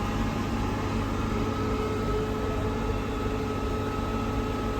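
Steady low rumble of a vehicle heard from inside while travelling, with a few faint steady whines over it.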